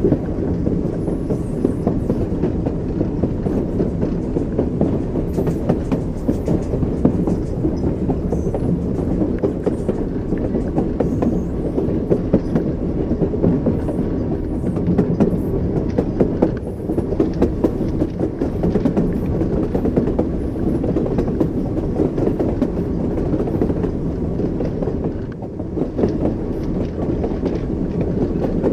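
Train wheels clattering over rail joints above a steady low rumble of a moving train, with many short clicks throughout.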